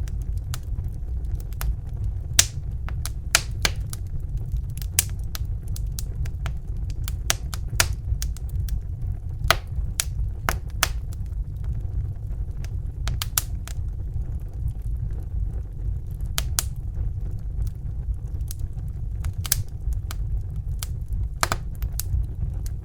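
Fire crackling: irregular sharp pops and snaps, some in quick clusters and some seconds apart, over a steady low rumble.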